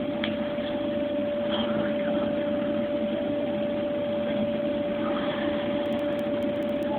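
Steady rushing noise of wind and blown snow on the microphone as the avalanche's air blast arrives, with a constant high hum underneath.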